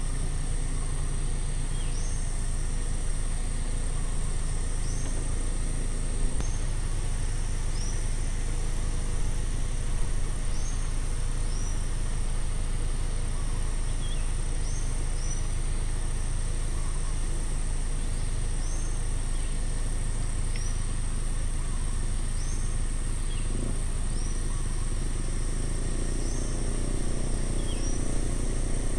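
Roadside ambience: a steady low rumble of distant road traffic under a continuous high insect drone, while a bird repeats a short rising chirp every second or two.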